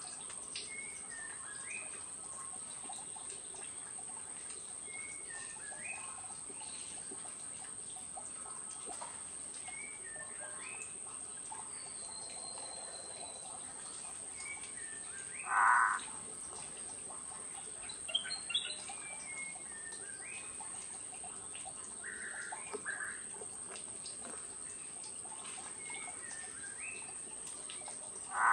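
Forest birds calling: scattered short chirps and whistles, with a louder, lower call about halfway through and again at the very end, over a steady high-pitched whine.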